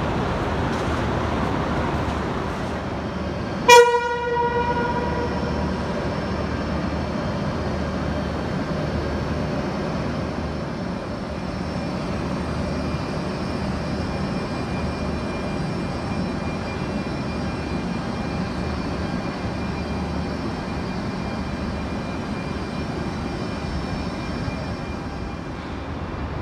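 China Railways HXD3D electric locomotive sounding one short, loud horn blast about four seconds in, then a steady rumble with a faint high whine as the train rolls slowly into the station.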